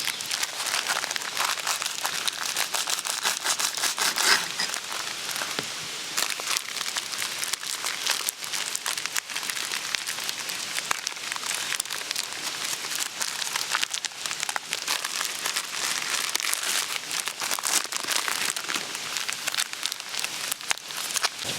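Wood campfire crackling and popping steadily: a dense run of small sharp snaps, with a louder pop about four seconds in.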